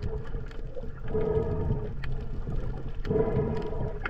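Muffled underwater sound while snorkeling: a steady hum that swells twice, over low rumbling and faint clicks.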